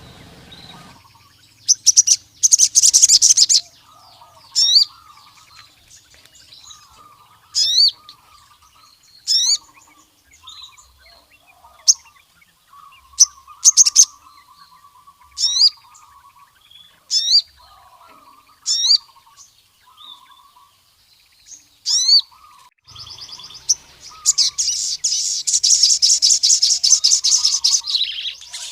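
Male crimson sunbird singing: sharp, high single notes repeated every second or two, with a rapid buzzing trill about two seconds in and a longer one over the last few seconds. Softer, lower chirps run between the notes.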